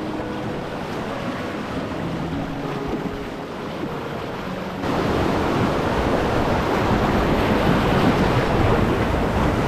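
River rapids rushing, with wind on the microphone; the rush jumps suddenly louder about halfway through.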